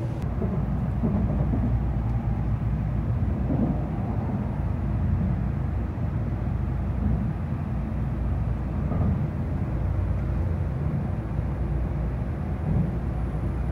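Tokaido Shinkansen train running, heard from inside a passenger car as a steady low rumble.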